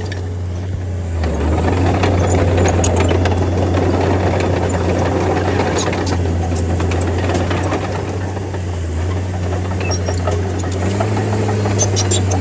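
Bulldozer's diesel engine running steadily under load, a strong low drone that dips briefly about a second in and again near nine seconds, with scattered sharp high clicks over it.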